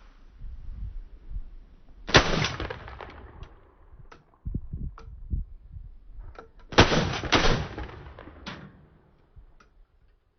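Shotguns firing at pigeons in two quick bursts of several shots each, one about two seconds in and another near seven seconds, with fainter clicks and knocks in between.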